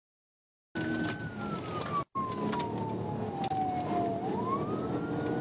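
Police car siren on a slow wail, one tone falling steadily in pitch and then rising again, over the pursuing car's engine and road noise. It starts after nearly a second of dead silence and drops out for a split second about two seconds in.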